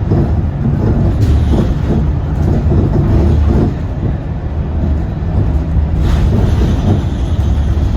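Scania K230UB single-deck bus under way, its nine-litre five-cylinder diesel engine running with a steady low rumble mixed with road and body noise inside the cabin.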